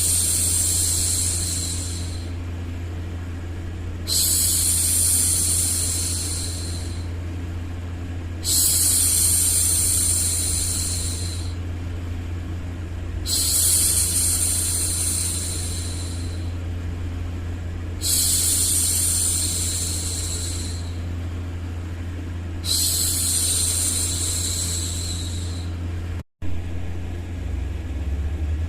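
A woman's voice hushing, making long "shhh" sounds of about two and a half seconds each, repeated about every four and a half seconds, meant to soothe a baby. A steady low hum runs underneath, with a split-second dropout near the end.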